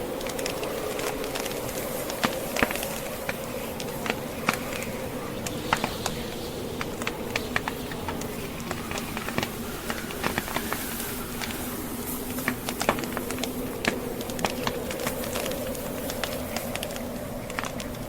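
Wood fire burning in a fireplace, crackling with frequent irregular sharp pops, over the steady, wavering howl of blizzard wind.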